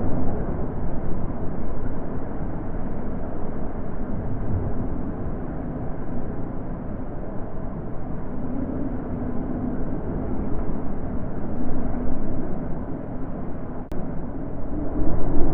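Wind blowing: a deep, steady rush that swells and eases in gusts, with no tones or voices.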